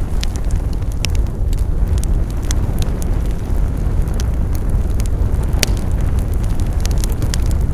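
Wood fire burning with a steady low rumble and scattered sharp crackles and pops, several of them louder, about two and a half seconds in and near the end.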